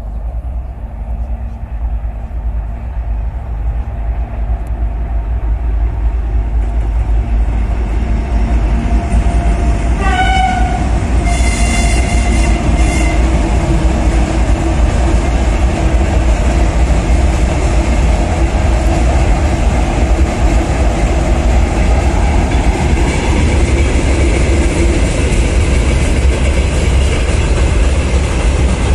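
A 3TE10U diesel locomotive hauling a freight train across a steel truss bridge: the heavy rumble of the engines and the wagons grows louder over the first several seconds. About ten seconds in, the locomotive sounds its horn, a short blast and then a longer one, over the continuing rumble of the wagons on the bridge.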